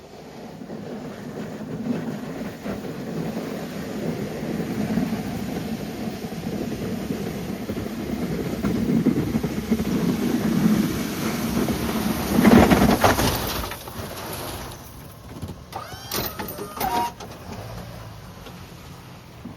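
A vehicle engine running steadily while pushing snow, loudest about twelve seconds in, then dropping away. A few short squeaks follow near the end.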